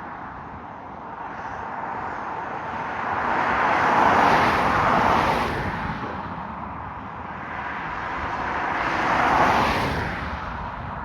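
Two vehicles passing close by one after the other, each a rise and fall of noise. The first peaks a little before halfway and the second near the end.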